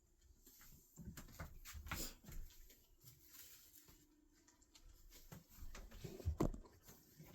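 Faint knocks, clicks and rustles of things being handled, in two busier stretches: about a second in and again near the end.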